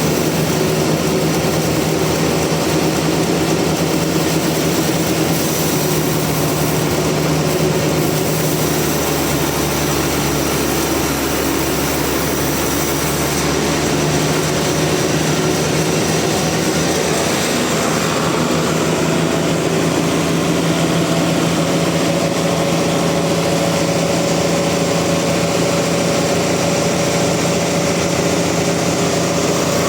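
Sawmill machinery running with a loud, steady drone and hum. The tone of the drone shifts a little about a third of the way in and again past the middle.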